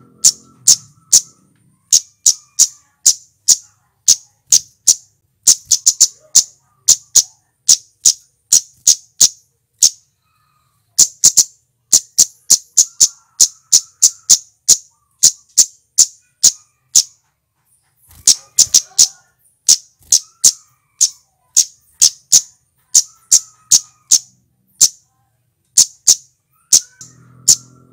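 Flowerpecker (cit keres) calling: a rapid series of sharp, high-pitched 'tsit' notes, about three or four a second, broken by two short pauses, with faint lower twittering between them.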